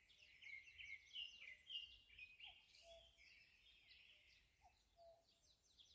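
Faint morning birdsong: several small birds chirping and twittering in quick, overlapping high notes.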